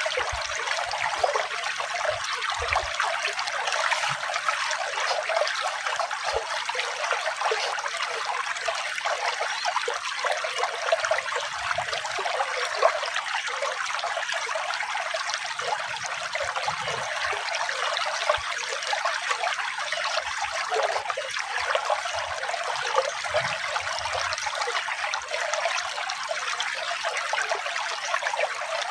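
Running water trickling steadily, a thin, even rush with no deep tones.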